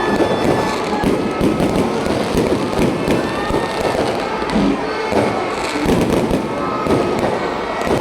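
Fireworks display going off: a dense, unbroken run of crackling and popping bangs, many overlapping.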